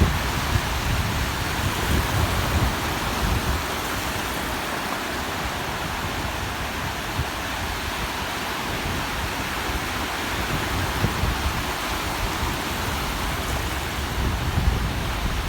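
Steady wash of surf on the beach, with wind buffeting the microphone in low, gusty rumbles.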